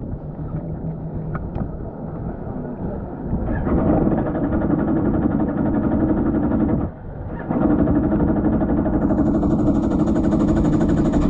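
Jet ski engine running: a low rumble at first, then about three and a half seconds in it opens up into a loud, steady drone that drops away briefly near seven seconds and picks straight back up.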